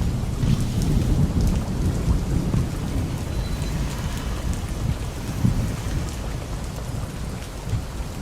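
Heavy rain falling with thunder rumbling low; the rumble slowly eases off through the second half.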